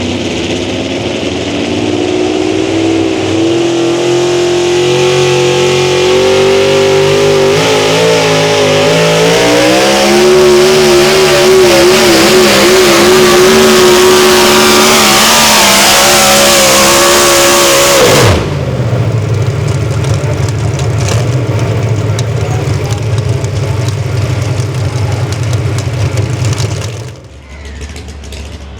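A high-horsepower pulling vehicle's engine at full throttle under heavy load, its pitch climbing and wavering as it drags the weight sled. About 18 seconds in the throttle is cut and the pitch falls sharply, leaving a lower, steady running sound that drops away near the end.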